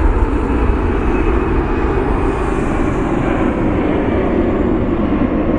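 Jet airliner engines running with a loud, steady noise, a faint high hiss swelling and fading around the middle.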